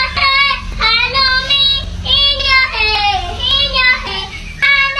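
A high-pitched voice singing a string of short, bending notes, over a low steady rumble.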